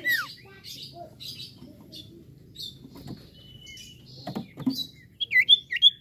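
Common iora singing: a sharp falling whistle at the start, scattered short chirps, a steady held whistle a little past halfway, and a run of loud, looping whistles near the end. A couple of knocks come just after four seconds.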